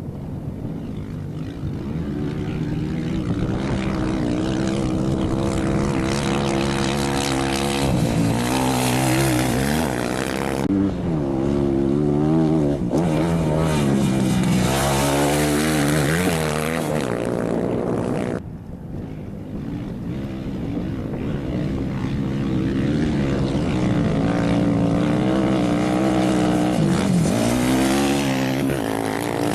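Rally motorcycle and quad engines at racing speed, revving up and down through the gears, their pitch swooping as they go by. The sound breaks off abruptly twice, once about a third of the way in and again past the middle.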